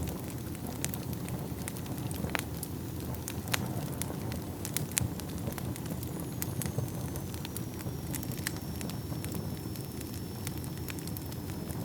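Wood fire burning in a fireplace: a steady low rumble of flames with frequent sharp, irregular crackles and pops. A faint high whistle runs through the second half.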